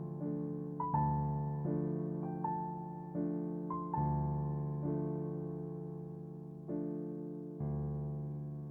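Soft, slow background piano music: single notes and chords struck about once a second, each fading slowly.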